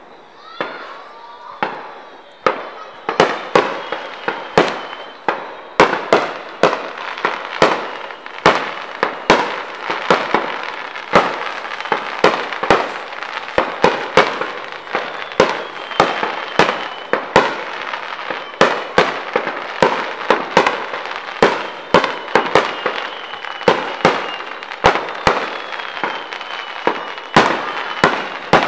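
Aerial firework shells bursting in a rapid barrage: sharp booms, about two a second, with crackling between them. The bangs are sparse at first and thicken about two seconds in.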